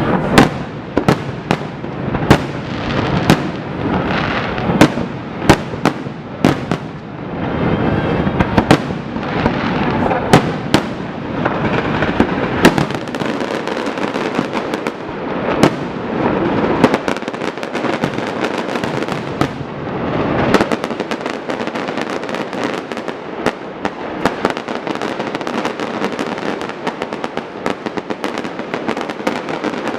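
Fireworks display: shells bursting in sharp booms about once a second through the first half, then giving way to a dense crackling of many small rapid reports that thickens further near the end.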